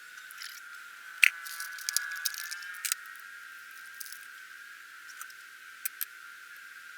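Irregular clicks and taps from handling the shop vac's parts and tools during the teardown, loudest about a second in, with a quick cluster soon after and a few single clicks later. A steady high whine sits beneath them throughout.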